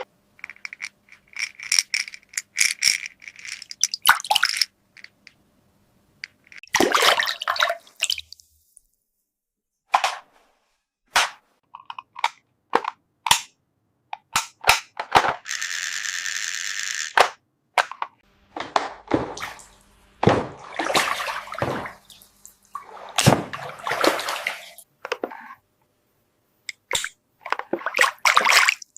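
Small plastic toy pieces clicking, tapping and clattering as they are handled, in many short separate knocks and rustles. A steady hiss lasts about two seconds near the middle.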